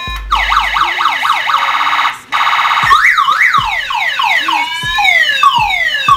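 Electronic siren played through a PA horn speaker, cycling through several siren tones. It starts with a fast up-and-down wail and a brief buzzing tone just after two seconds in. Then come quick rising and falling sweeps, and from about five seconds repeated falling sweeps, about two a second.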